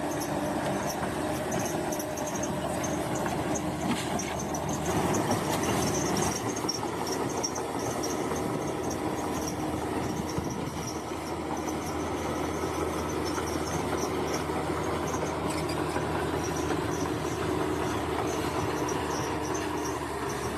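Bulldozer's diesel engine running steadily while it works, with insects chirping high above it in a fast, pulsing pattern.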